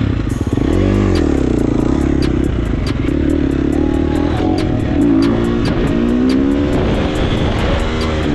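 Dirt bike running, its pitch rising and falling several times as it is revved and ridden, with a faint regular ticking over it.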